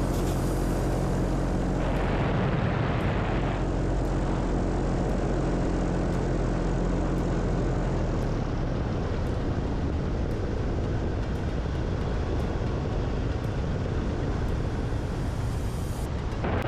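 Paramotor engine and propeller running steadily in flight, with wind rush. About halfway through, the even engine tone gives way to a rougher, noisier sound.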